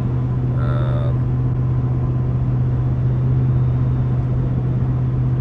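Steady in-cab drone of a pickup truck driving, road and engine noise with a strong, unchanging low hum.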